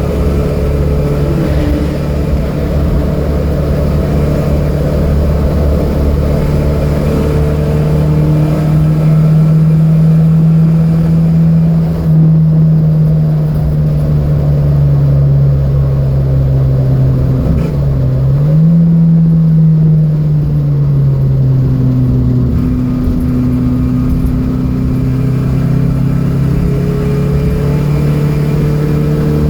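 Datsun B210 race car's engine running hard at high, fairly steady revs, its pitch dipping briefly and climbing back about two-thirds of the way through, then rising again near the end as the car is driven around the track.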